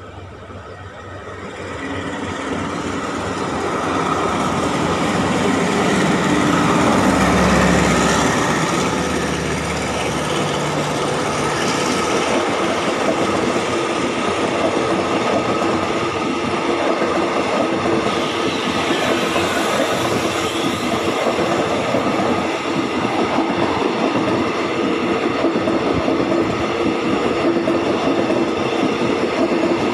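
A diesel-hauled passenger express train passes close by on the adjacent track. The locomotive's engine rumble builds and is loudest about seven or eight seconds in, then the coaches keep rushing past with a steady clatter of wheels on the rails.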